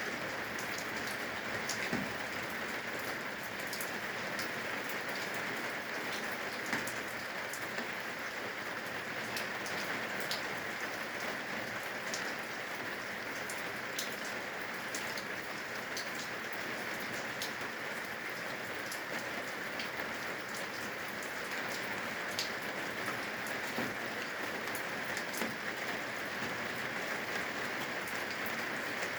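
Steady rain falling from the eaves, an even hiss with scattered sharp drips and drop impacts.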